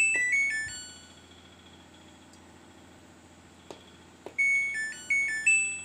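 Top-loading washing machine's control module playing a short electronic beep tune, once at the start and again about four and a half seconds in. Two sharp clicks come just before the second tune.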